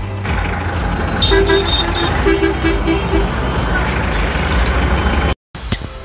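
A truck engine runs with a low rumble while its horn gives two quick runs of short beeps. The sound cuts off suddenly near the end, and music begins.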